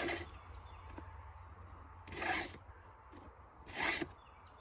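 Hand file rasping across a chainsaw chain's cutter tooth: three sharpening strokes, about a second and a half apart.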